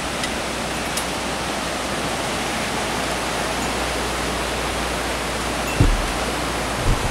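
Waterfall rushing: a steady, even noise of falling water, with two brief low thumps near the end.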